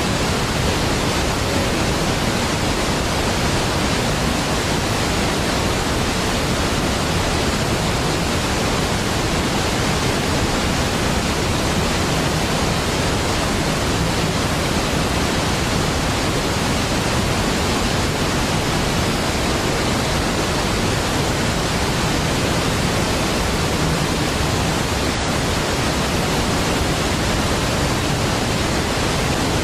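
Large waterfall pouring with a steady, even, deep rush of water, unchanging throughout.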